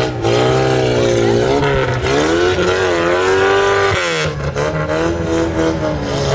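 Off-road 4x4's engine revving, the revs rising and falling under the throttle, with a brief drop about four seconds in.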